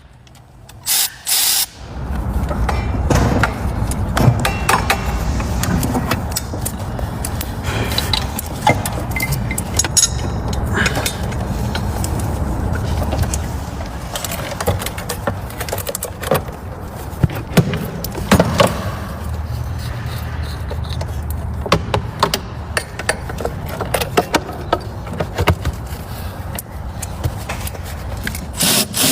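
Shop work on a truck engine: two short bursts of a power tool about a second in, then a steady low hum with scattered metallic clanks and clicks of parts and hand tools.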